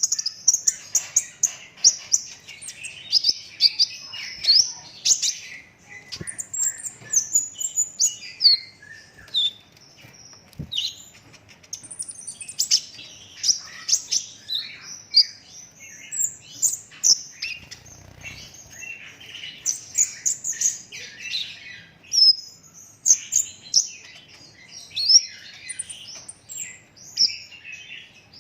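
Brown-throated sunbird singing a long, rapid song of high chirps and trills with hardly a pause.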